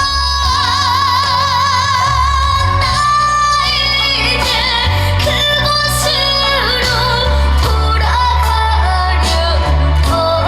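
A young singer singing a trot song over loud accompaniment with a steady bass, the held notes carried with a wide, wavering vibrato.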